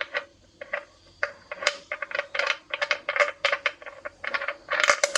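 Rapid, irregular metallic clicking and clinking, several sharp knocks a second with a faint ringing under them, loudest near the end.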